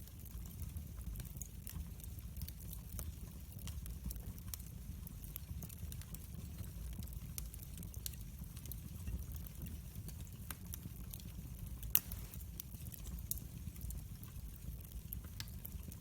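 Wood fire burning in a fireplace: a low steady rumble of the flames with scattered small crackles and pops, and one louder snap about three-quarters of the way through.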